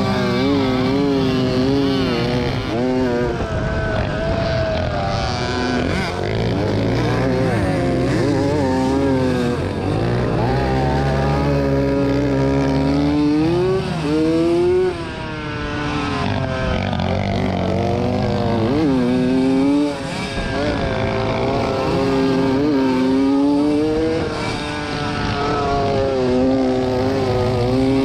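1987 Yamaha YZ80 two-stroke motocross engine being raced, revving up and dropping over and over as the throttle opens and closes, with brief cuts in the throttle about halfway through and again a few seconds later.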